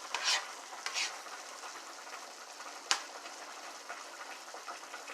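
Squash cooking down in a pan, sizzling steadily, with two short louder swishes of stirring in the first second and a single sharp click or tap about three seconds in.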